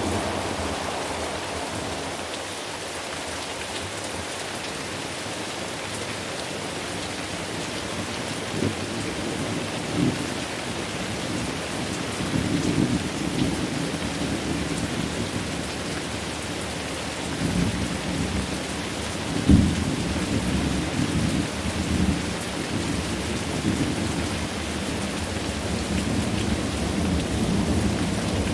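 Thunderstorm: steady rain with rolling thunder, low rumbles swelling and fading. Sharp thunder cracks come about ten seconds in and again, loudest, a little before twenty seconds.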